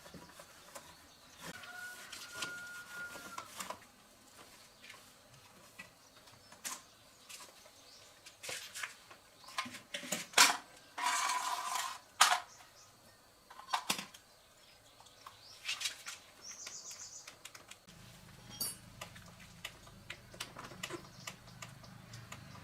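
Scattered clicks, taps and scrapes of parts and tools being handled during repair of an old electric fan, with a longer rasping scrape around the middle. A low steady hum sets in near the end.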